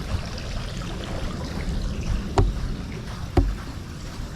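A ladder being handled: two sharp clunks about a second apart, over a steady low rumble of wind on the microphone.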